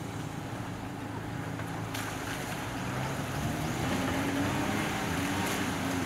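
Suzuki Jimny engine running under load as the off-road vehicle crawls through a muddy rut, its note rising and getting louder about three seconds in as it is given throttle.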